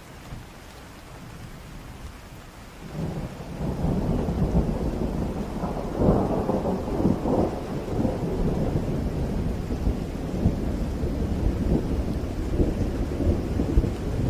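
Steady rain, then about three seconds in a long peal of thunder builds into a low rolling rumble, loudest with crackling a few seconds later, and goes on rumbling under the rain.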